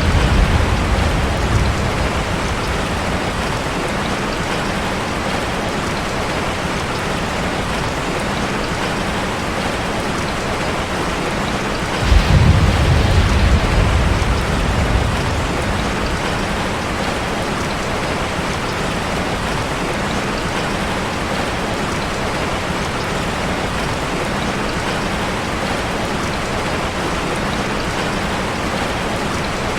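Heavy rain falling steadily on a car. A low rumble of thunder fades out in the first second, and a sudden thunderclap about twelve seconds in rumbles on for about three seconds.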